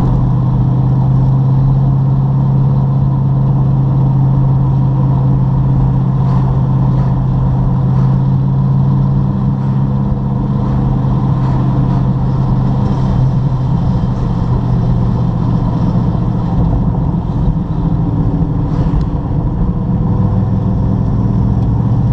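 TVR sports car's engine running at a steady cruise with road noise, heard from inside the car; the engine note wavers in the middle and drops a little near the end.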